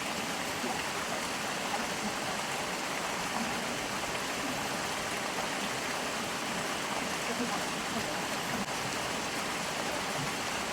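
Steady rushing and gurgling of water flowing in a stream.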